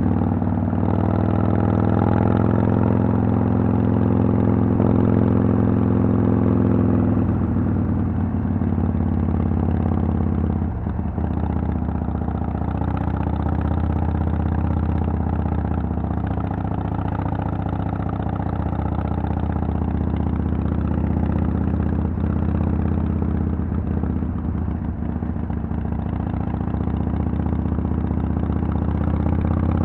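Harley-Davidson Sportster XL883L's air-cooled 883 cc V-twin engine running through a Vance & Hines Twin Slash exhaust. Its pitch falls over the first several seconds and then holds steady, with a few brief dips.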